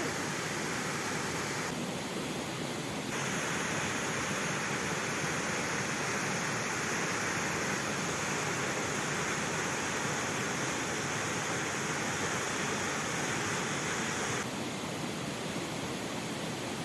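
Steady rushing of a mountain river and waterfall: an even hiss of falling water with no distinct events, its level and brightness shifting in steps a couple of seconds in and again near the end.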